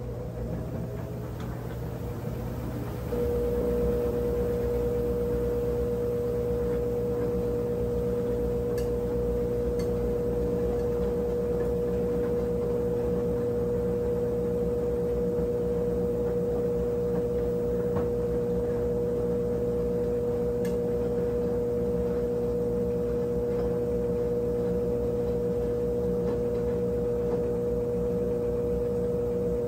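Brastemp 17 kg washing machine running mid-cycle, a steady electric whine over a low hum. The whine drops out and comes back sharply about three seconds in.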